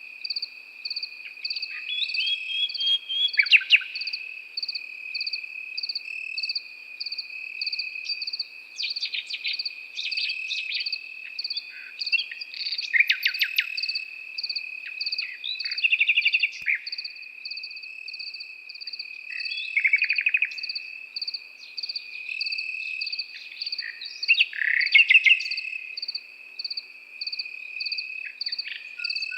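Nightingale singing short, varied phrases of rapid notes over a steady trill of crickets, with another insect chirping in quick, even pulses.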